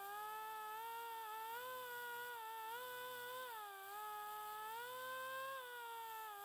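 Die grinder spinning a straight cut burr bit as it grinds paint and a thin layer of plastic off a bumper tab, a continuous high whine whose pitch sags and recovers as the bit is loaded and eased off.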